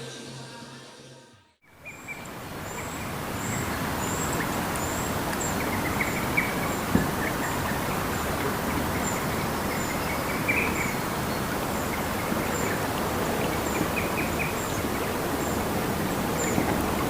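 A river running steadily, with a small bird calling a short, high chirp over and over and other birds chirping now and then. For the first second or so, before the river starts, music and voices fade out.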